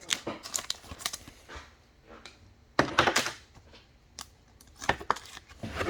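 Trading cards being handled: a string of light clicks, taps and rustles as cards are flicked through and set down, with a louder flurry about three seconds in.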